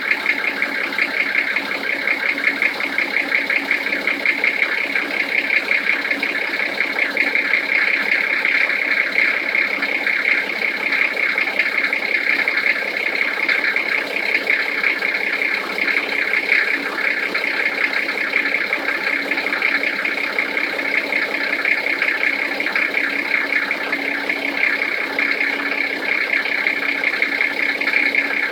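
Toyota 1HZ 4.2-litre inline-six diesel idling cold with a steady, rapid knock, the cold-engine knock the owner is recording.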